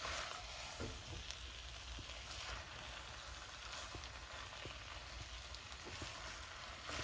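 Chow mein (spaghetti, chicken and vegetables) sizzling gently in a nonstick wok over the flame while being tossed with a silicone spatula: a steady low hiss with scattered faint ticks and scrapes.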